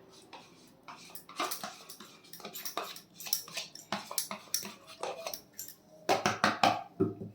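A spoon clinking and scraping against a bowl in a run of irregular taps, growing louder near the end, as whisked yogurt is spooned onto raw mutton for a marinade.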